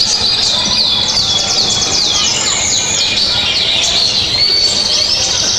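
Busy chorus of high bird-like chirps and whistles, many short falling sweeps overlapping one another, over a steady hiss.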